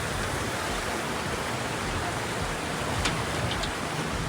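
Steady rushing of a mountain river, with a short click about three seconds in.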